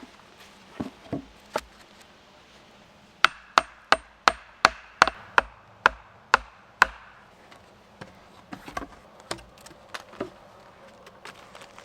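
Wood being struck hard about ten times in a steady run, roughly three blows a second, as logs or stakes of a log fire reflector are knocked into place. Lighter knocks and clunks of wood come before and after the run.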